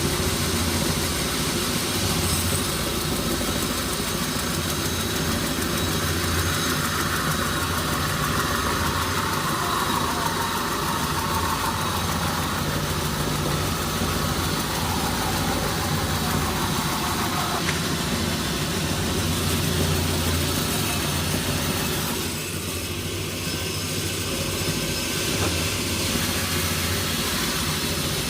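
Sawmill machinery engine running steadily with a low hum. A higher whine slowly drops in pitch and cuts off sharply about 18 seconds in.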